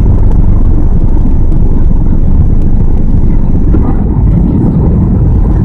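Airbus A320 cabin noise: the engines and rushing airflow heard from inside as a loud, steady rumble.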